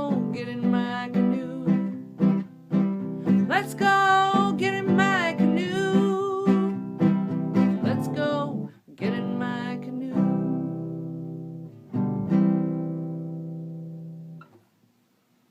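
Acoustic guitar strummed in a steady rhythm with a sung line over it, then the song ends on two last chords that are each left to ring and fade out.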